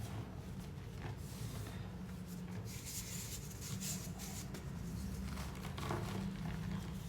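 Slab of gym chalk being crushed and crumbled, with crisp crunching that is strongest from about three to four seconds in and again near six seconds, over a steady low hum.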